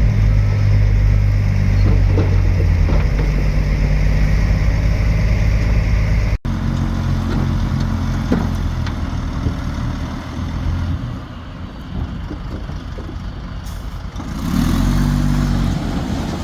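Heavy diesel engines of a bulldozer and dump trucks running with a steady low drone. There is an abrupt break about six seconds in, then a quieter stretch, and an engine comes up again near the end.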